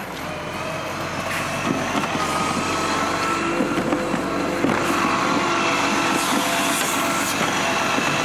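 Garbage truck running, with a steady whine over the engine that sets in about a second in.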